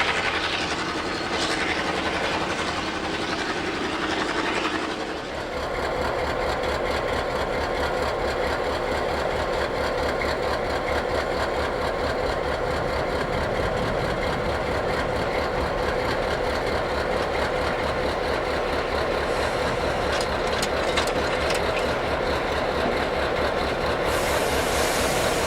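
Diesel locomotive engine running. About five seconds in the sound turns into a steady drone with an even beat.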